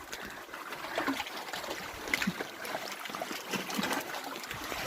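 Lake water lapping and splashing around a kayak, with many small, irregular splashes and ticks.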